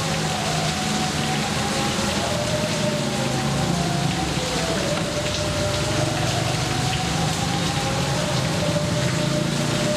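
Steady rain falling, an even hiss at a constant level with no thunder, and a faint wavering hum underneath.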